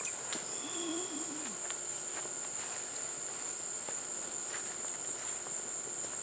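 Insects calling steadily in one continuous high-pitched drone, with a few faint clicks and a short low warble about a second in.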